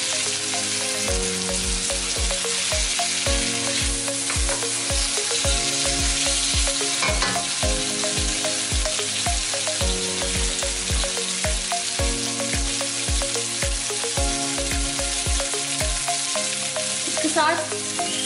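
Sliced bell peppers sizzling in hot oil in a steel pan on low heat, with a spatula stirring them now and then.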